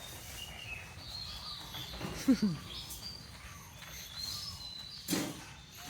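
Birds chirping repeatedly in the background. About two seconds in, a short, loud sound falling in pitch comes twice in quick succession, and a brief noisy burst follows near the end.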